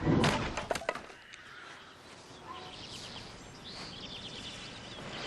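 Birds chirping over outdoor background noise, after a brief loud noisy sound in the first second.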